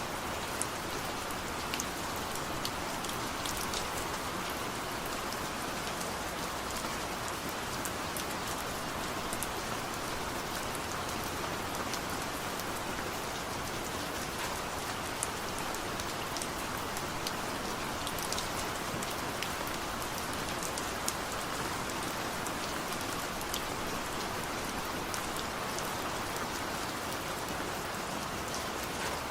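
Steady rain falling, an even wash of noise with many small drop ticks scattered through it.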